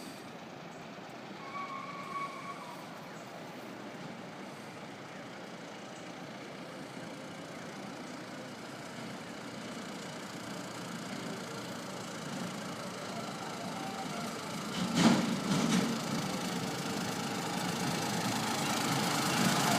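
A motor vehicle's engine running steadily, with a short louder burst about 15 seconds in, then growing louder toward the end. A brief higher tone sounds about 2 seconds in.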